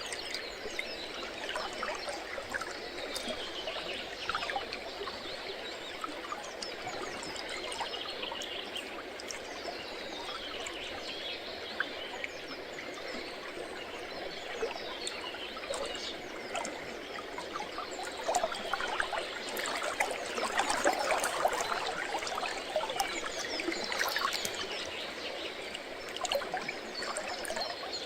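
River water trickling and flowing steadily, louder for a stretch past the middle, with scattered small crackles from a campfire. A few short falling calls from distant birds come through.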